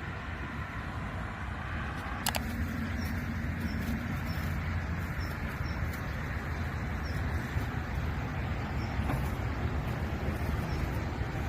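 Steady low outdoor rumble, with a single sharp click about two seconds in and faint high bird chirps repeating through the middle.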